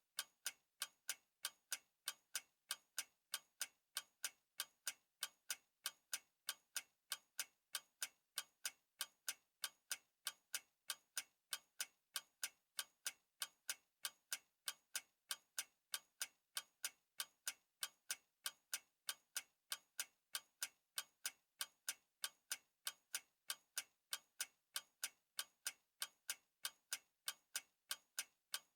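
Clock ticking steadily, with even, regular sharp ticks at about three a second.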